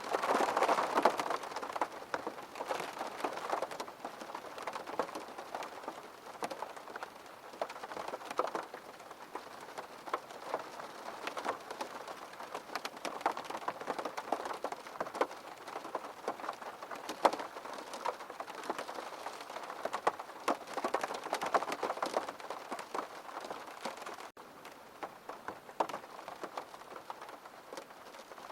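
Steady rain falling, with many close individual drops heard as sharp ticks on a surface, a little heavier in the first couple of seconds. The sound drops out for an instant about 24 seconds in.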